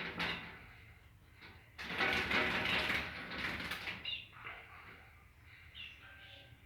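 A small bird flapping and pecking at its own reflection in a mirror: a few taps at the start, a loud flurry of wing beats and scrabbling about two seconds in, then a couple of short high chirps.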